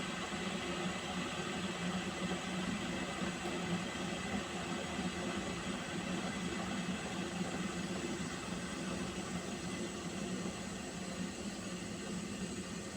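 Water heating in a pot: a steady hiss with a low hum under it, unchanging throughout.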